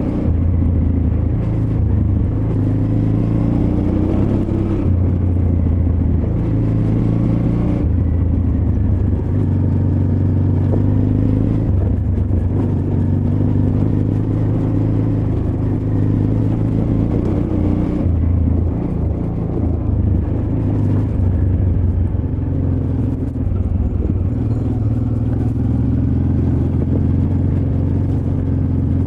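Honda Transalp XL600V's V-twin engine running under a rider on a rough off-road trail. Its note rises and falls as the throttle opens and closes, with several abrupt changes in pitch.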